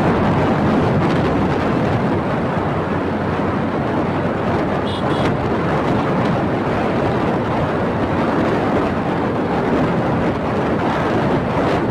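Steady loud rushing noise with no rhythm or clear pitch, and a brief faint high double tone about five seconds in.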